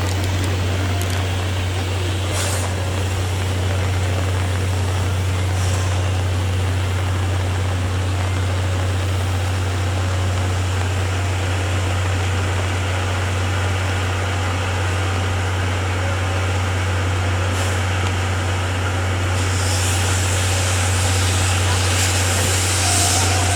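Steady hiss of heavy rain over a constant low hum. The hiss grows stronger near the end.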